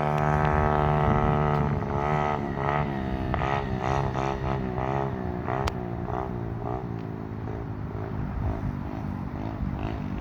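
Apollo 125cc pit bike's single-cylinder four-stroke engine running at steady revs, then rising and falling in pitch over and over as the throttle is worked, with one sharp click about halfway through.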